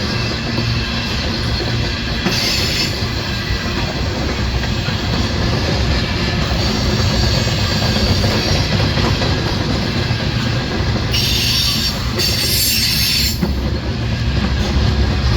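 Freight train of loaded coal gondolas rolling past with a steady low rumble of wheels on rail. Short bursts of high-pitched wheel squeal come about two seconds in and again from about eleven to thirteen seconds.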